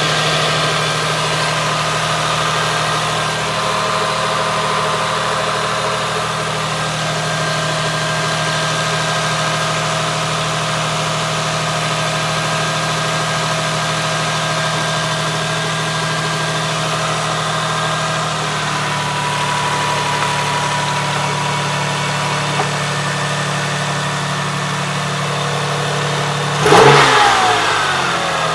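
Toyota 1MZ-FE 3.0-litre V6 engine idling steadily, then one sharp throttle blip near the end, the revs rising quickly and falling back to idle.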